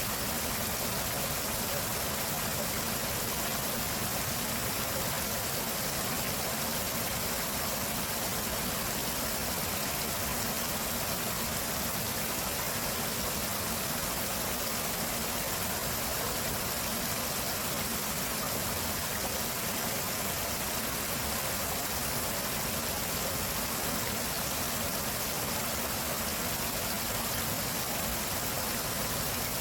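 Stream water rushing steadily over rocks, a constant even wash of water noise with no breaks.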